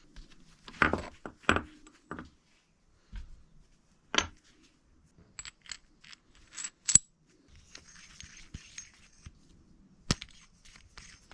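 Scattered metallic clinks, taps and knocks from small metal parts and tools being handled, with a brief scraping about two-thirds of the way through.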